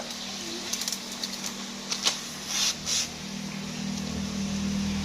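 A steady motor hum that grows louder near the end, with a few short clicks and brief hisses over it.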